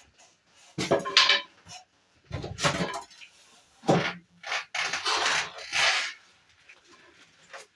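Several bursts of clattering, knocking and rustling as hard objects are handled and moved about, with short quiet gaps between.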